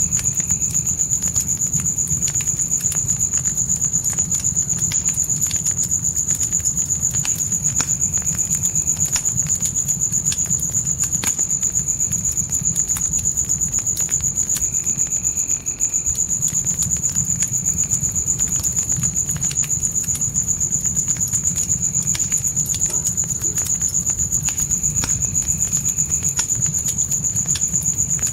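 Crickets chirping in a continuous, rapidly pulsing high trill over a crackling fire: scattered sharp pops above a low, steady rumble.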